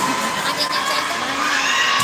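Crowd of spectators shouting and cheering in a sports hall, many voices at once.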